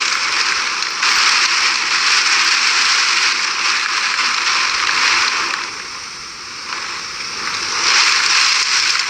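Heavy hurricane rain pouring down as a steady hiss, easing a little in the middle and picking up again near the end.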